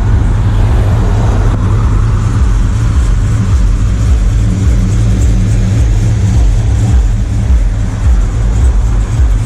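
Car engine with an aggressive cam idling close by: a loud, low, uneven rumble typical of a cammed engine's choppy idle.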